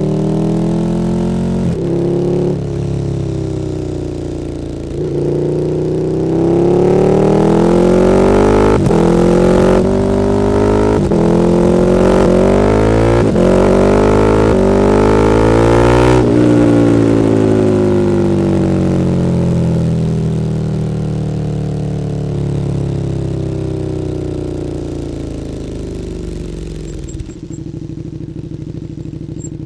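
KTM 1290 Super Duke R's V-twin engine, breathing through an Akrapovič Evolution Line exhaust, revving up hard through several quick gear changes. It then winds down steadily under deceleration and drops to a steady idle near the end.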